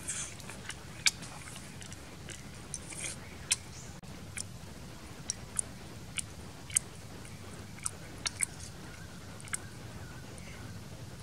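A person chewing cooked frogs, with wet smacking and scattered sharp clicks at irregular intervals.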